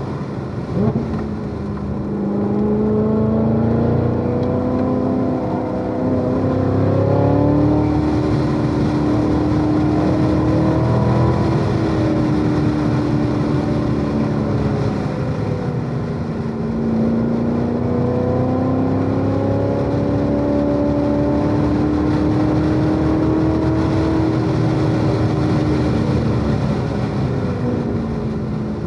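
Chevrolet Corvette C7 Z06's supercharged 6.2-litre V8 being driven hard on track. The engine note climbs slowly for about ten seconds, drops away, climbs again for about eight seconds, then falls near the end as the driver accelerates, lifts and brakes.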